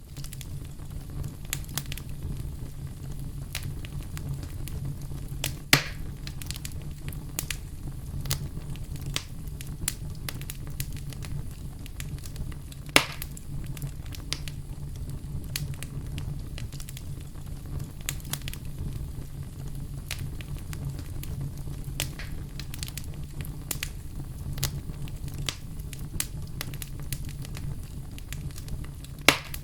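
Campfire burning, with a steady low rumble under frequent small crackles and three louder pops: about six seconds in, about thirteen seconds in, and near the end.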